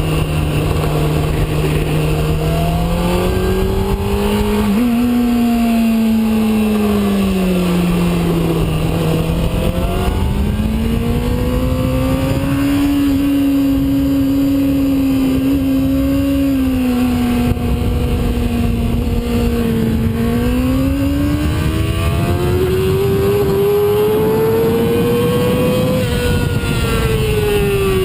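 Sport bike engine running at speed on a race track, its note climbing and falling smoothly as the throttle and gears change, with a sudden step up in pitch about five seconds in. A steady low rush of wind lies under it.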